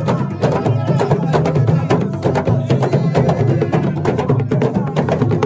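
Assiko music: a fast percussion rhythm of drums and sharp, wood-block-like strikes over low bass notes.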